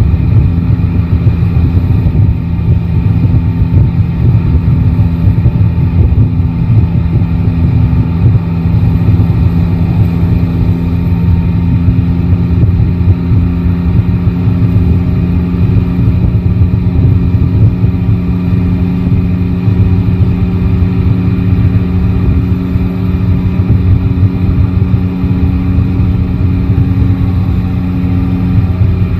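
Yamaha Tracer 9 GT's three-cylinder engine running steadily under way at a fairly constant speed, heard from the rider's seat over low road and wind rumble.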